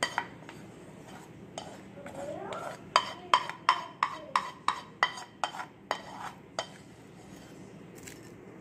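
A spoon scraping and knocking against a pan as sauce is scooped out onto a plate, with a quick run of about a dozen knocks, roughly three a second, in the middle.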